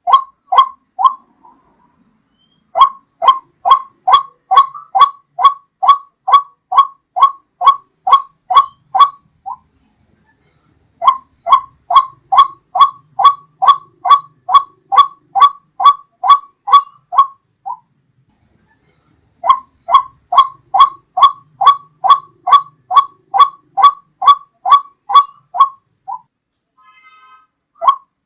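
White-breasted waterhen (ruak-ruak) calling, a lure call: loud, clear notes repeated about twice a second in long series, broken by short pauses into three bouts.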